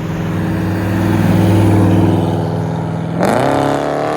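Sports car engine running at steady low revs, then about three seconds in the revs climb sharply as it opens up and accelerates away.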